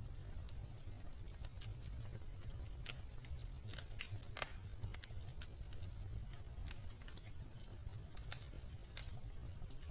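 Wood fire crackling in a fireplace: irregular sharp crackles, a few a second, over a steady low rumble.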